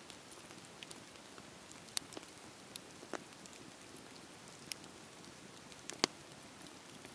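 Wood fire crackling: a soft steady hiss with scattered sharp pops, the loudest about six seconds in.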